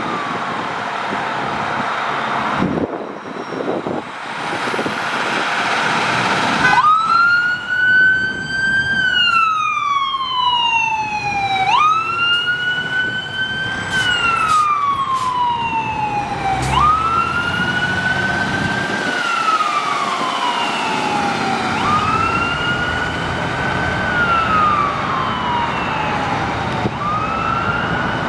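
Fire truck's siren on wail, with traffic noise before it. About seven seconds in, the siren starts: each cycle jumps up in pitch quickly, then slides slowly down, repeating about every five seconds over the road noise.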